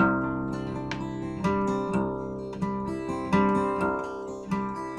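Acoustic guitar strumming the song's opening chords, starting abruptly with a strong strum and restruck every second or so.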